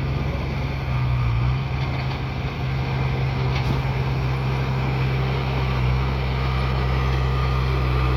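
Bulldozer's diesel engine running steadily with a deep, even hum, with a faint clank about three and a half seconds in.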